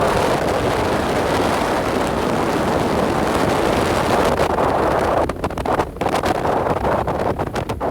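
Heavy wind buffeting the microphone from a moving off-road vehicle, a dense rushing noise that drops out briefly several times near the end.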